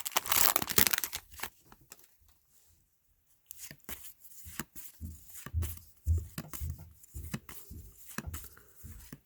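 Foil trading-card pack wrapper tearing and crinkling for about the first second, then after a short quiet spell, cards being handled and flipped: scattered rustles, clicks and soft bumps.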